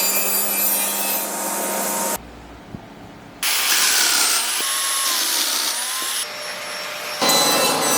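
Woodworking power tools running in short cut-together clips, a motor's whine dipping in pitch and coming back up in the middle clip, with a brief quieter gap a couple of seconds in.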